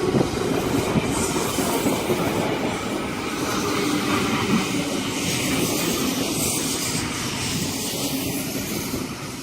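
Sydney Trains S set double-deck electric train running into the station platform, with a steady rumble and wheels clattering over the rails.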